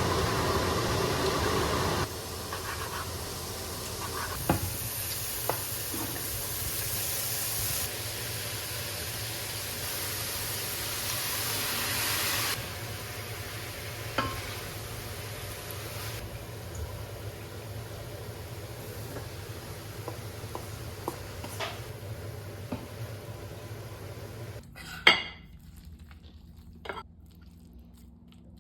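Food sizzling in a pan, with clinks and scrapes of a utensil stirring it. A loud sharp knock comes near the end, after which the sizzle gives way to quieter sound.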